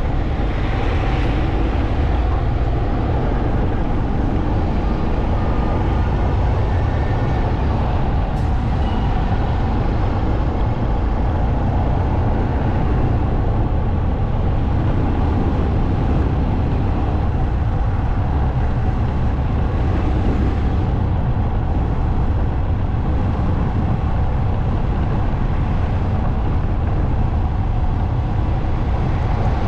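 Motorcycle running at a steady cruise, its engine under a constant low rumble of wind and road noise, heard from the bike.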